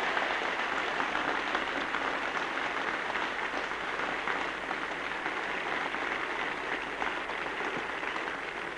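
A large crowd applauding, a steady dense clapping that eases off slightly near the end.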